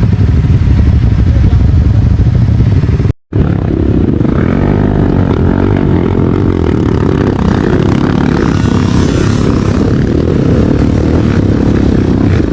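Motorcycle engine running while riding, its pitch rising and falling with the throttle. The sound cuts out completely for a moment about three seconds in.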